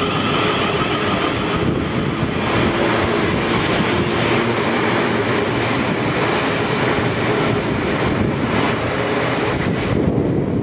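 South Western Railway electric multiple-unit trains passing close at speed: a steady, loud rumble of wheels on the rails. A high whine fades out in the first couple of seconds, and the sound changes about ten seconds in as another unit's cab goes by.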